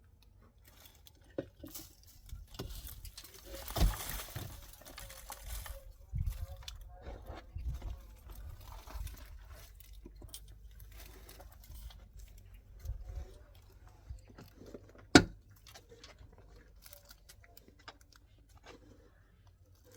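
Scattered knocks, scrapes and crunching from objects being handled. There is a noisy rustling spell about four seconds in and one sharp, loud knock about fifteen seconds in.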